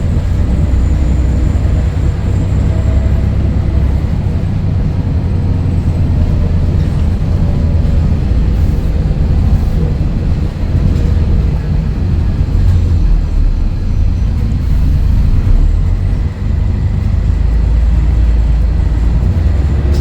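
Scania DSC11 six-cylinder diesel engine of a Scania L113CRL bus running, a deep, fairly steady low rumble.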